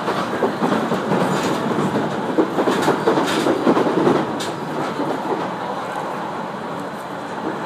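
701 series electric train running, heard from inside the carriage: steady rumble of wheels on rail with sharp clacks as the wheels pass over rail joints, easing a little after about five seconds.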